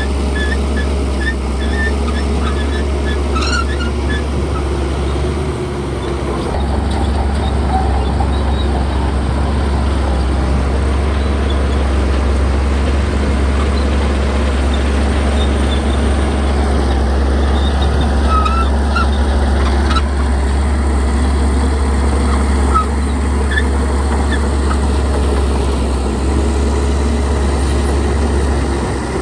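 Bulldozer's diesel engine running steadily under load, with a few short high squeaks scattered through.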